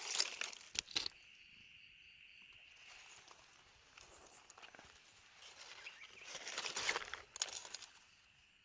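Night insects, crickets among them, trilling steadily at a high pitch, broken in the first second and again from about six to eight seconds by loud rustling and crunching of dry vegetation.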